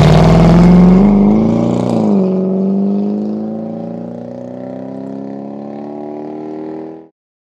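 Jaguar XK8 V8 engine revving hard as the car pulls away under full acceleration. The engine note drops once about two seconds in, then climbs again and fades steadily as the car drives off into the distance, ending in an abrupt cut.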